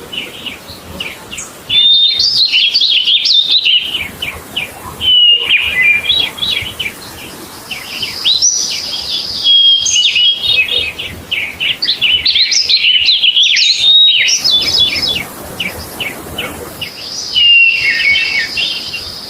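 A bird singing: about five phrases of rapid chirps and trills, each lasting two to three seconds, some with a high whistle held through them.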